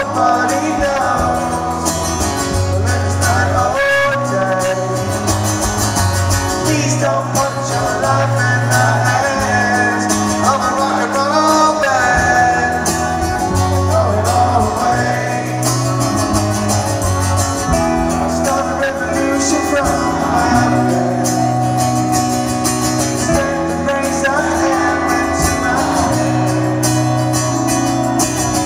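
Live rock band playing a song with singing over sustained chords, bass and drums, recorded from the audience at a loud, steady level.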